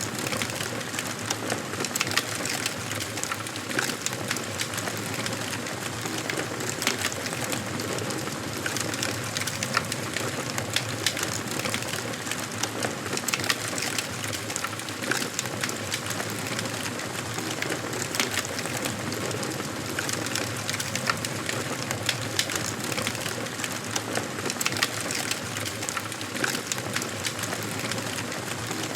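Wood fire burning in a fireplace, crackling steadily with many sharp pops over a soft hiss.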